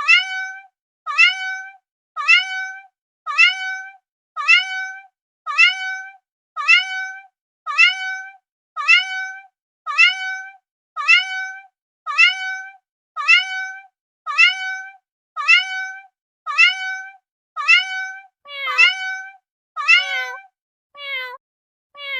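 A domestic cat's meow repeated over and over, about one a second, each call the same short cry that rises and then holds. Near the end a lower, falling meow joins in between some of them.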